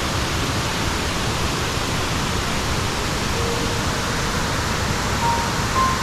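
Kuang Si waterfall's water pouring over limestone cascades: a steady, even rush of falling water, with a few short faint pitched notes about halfway through and twice near the end.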